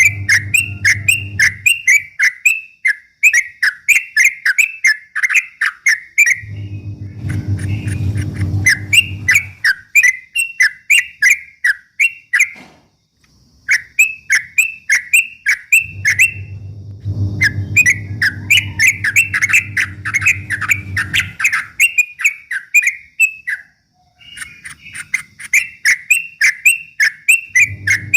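Yellow-vented bulbul (trucukan) singing a rapid run of repeated chattering notes, about five a second, in long bursts with brief breaks. A low hum comes and goes underneath.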